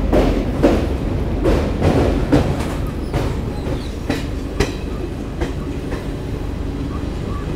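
Passenger train coach running over the rails on a steel girder bridge, heard from an open doorway: a steady low rumble with irregular sharp clacks of the wheels over rail joints, louder and more frequent in the first three seconds.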